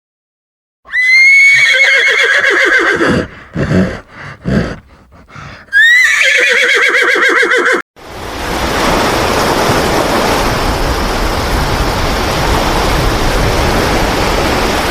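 A horse neighing twice, each whinny about two seconds long and quavering down in pitch, with short snorts between. About eight seconds in, the neighing stops and a steady rushing noise takes over.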